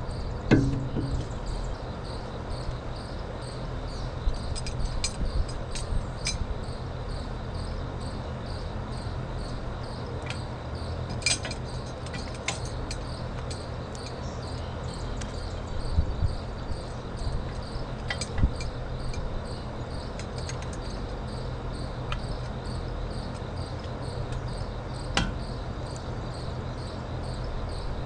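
Crickets chirping steadily over a low, even hum, with scattered sharp clicks and knocks of metal being handled.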